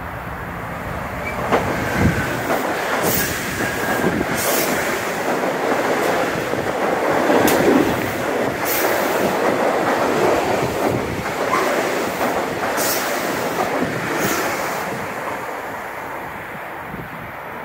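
Metro-North M8 electric multiple-unit train running through the station as a deadhead without stopping. A rush of wheels and air builds as it approaches, is loudest as the cars pass about eight seconds in, then fades as it goes away. Sharp clicks of the wheels over rail joints run through the pass.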